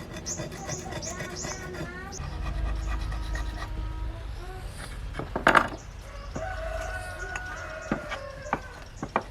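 Fast, even hand-filing strokes for the first couple of seconds, then scattered workshop knocks, the loudest a single sharp knock about five and a half seconds in.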